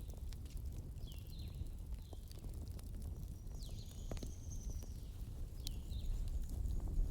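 Logs burning in a fireplace: a low steady rumble of flame with frequent sharp crackles and pops, and a few short high whistles that mostly slide down in pitch.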